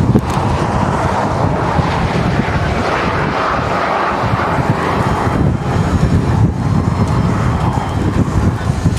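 Heavy wind buffeting the microphone over a steady roar.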